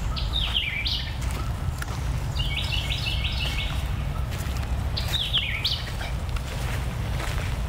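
Songbird calls: a short falling call about half a second in, a quick run of repeated notes in the middle, and the falling call again about five seconds in, over a steady low rumble.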